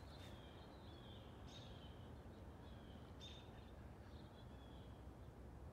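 Faint birds chirping: short falling calls about once a second over a quiet, steady background hum.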